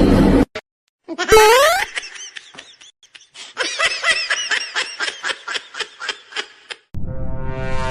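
A person laughing in a long run of quick, pitched bursts, about four or five a second, after a short loud rising squeal; another rising pitched sound starts near the end.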